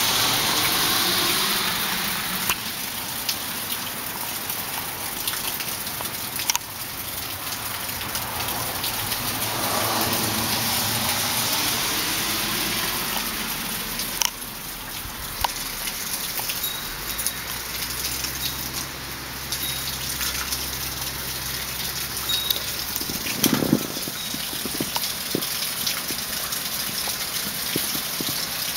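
Heavy tropical-storm rain pouring down in a steady hiss.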